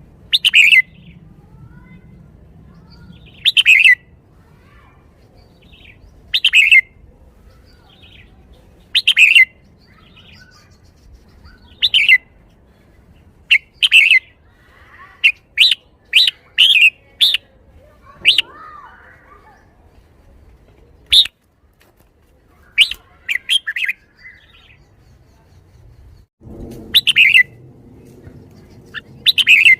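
Red-whiskered bulbul singing loud, short phrases that repeat about every three seconds, with a quicker run of phrases in the middle.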